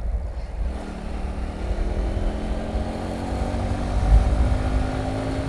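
Hero Passion Pro motorcycle's single-cylinder engine running under way, its pitch rising slowly from about a second in as the bike gathers speed, over a steady low wind rumble on the microphone.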